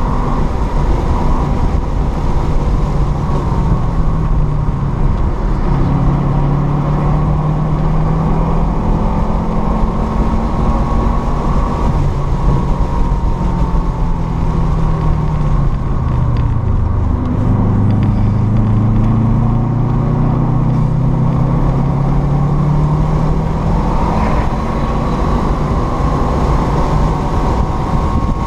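Car engine at high revs heard from inside the cabin during hard track driving, with steady wind and road noise. The engine pitch sags off throttle about halfway through, dips lowest a little after that, then climbs again as the throttle opens.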